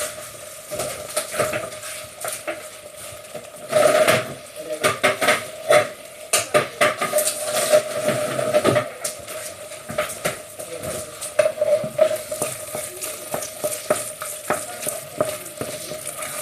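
A spoon stirring risotto in a pan, with irregular scrapes and knocks against the pan and a light sizzle, as butter is stirred into the finished rice. The scrapes and knocks come thickest in the first half.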